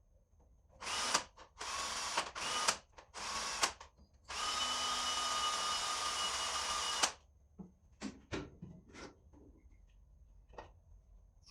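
Power drill run in four short bursts, then held for one steady run of about three seconds at an even whine, followed by a few light clicks and knocks.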